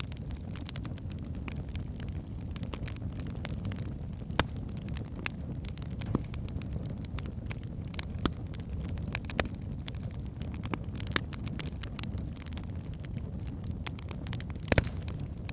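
Wood fire of burning logs in a fireplace: a steady low rumble of the flames with irregular sharp crackles and pops, a few louder snaps scattered through, the loudest near the end.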